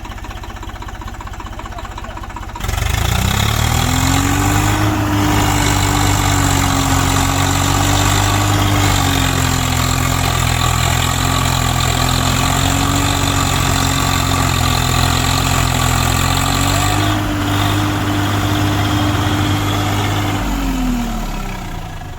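Tractor diesel engine idling, then revved hard about two and a half seconds in. It is held at high revs for over fifteen seconds with slight wavering, then drops back toward idle near the end.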